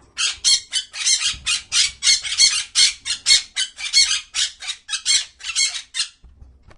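A bird squawking: a rapid run of about twenty short, harsh calls, about three a second, stopping about six seconds in.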